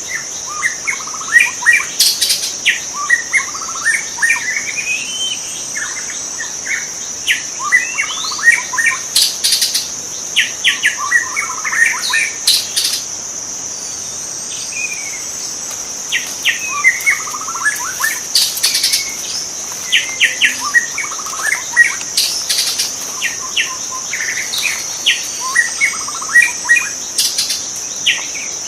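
White-rumped shama singing: runs of rapid, varied notes a few seconds long, broken by short pauses, over a steady high-pitched insect drone.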